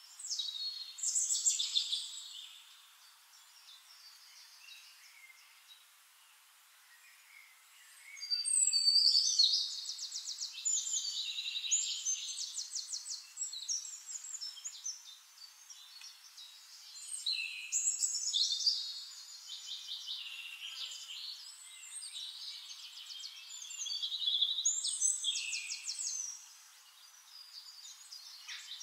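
Small birds chirping and singing high, with bursts of rapid trills every six to eight seconds and quieter chirping between.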